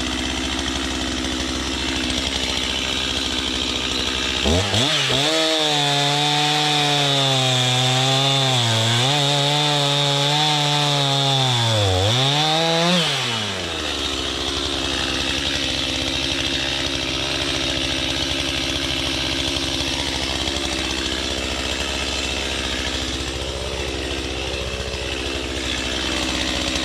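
Chainsaw idling, then run up to full throttle for about nine seconds, its pitch dipping and recovering several times as it cuts into wood, then dropping back to idle.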